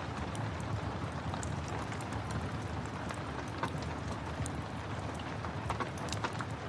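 Steady rain with the scattered crackles and pops of a wood fire burning in a fireplace.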